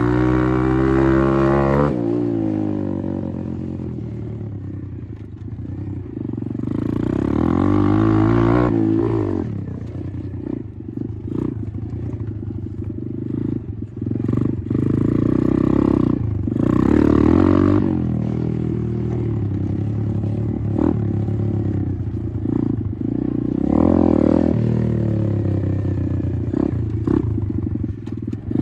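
Apollo RFZ 125 dirt bike's single-cylinder four-stroke engine running under riding throttle, revs climbing and dropping again and again, with frequent clattering knocks.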